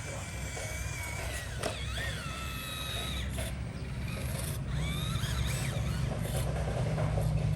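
Radio-controlled off-road truck driving: a high electric-motor whine that rises and falls in pitch with the throttle several times, over a steady low rumble.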